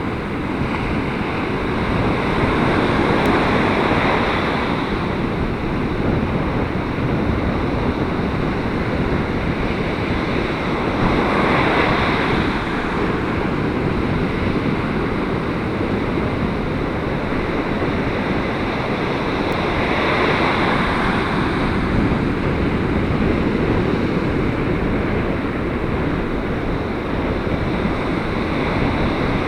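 Gale-force wind and breaking ocean surf blended into one loud, steady rush, with heavy wind buffeting on the microphone. Swells rise and fall every several seconds as waves break.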